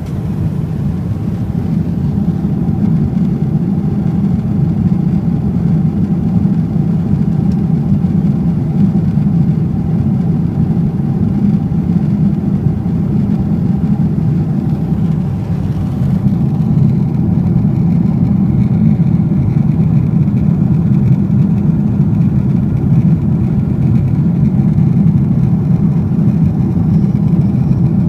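Steady cabin noise of a Boeing 777-300ER airliner, a continuous low rumble of airflow and its GE90 jet engines with a faint steady tone above it. The higher hiss eases slightly about halfway through.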